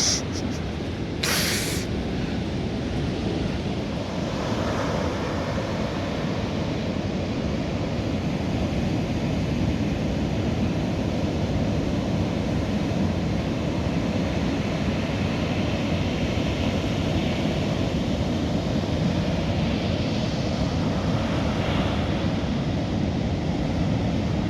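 Waves washing on a beach, a steady rush of surf, with wind rumbling on the microphone. A brief rustle sounds about a second and a half in.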